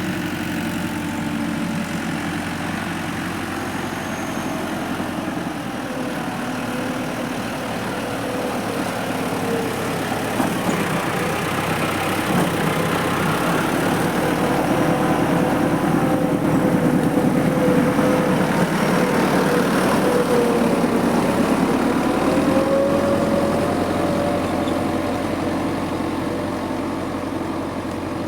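Tractor engine running steadily, growing louder from about halfway through, with a slight rise in pitch, and easing off again in the last few seconds.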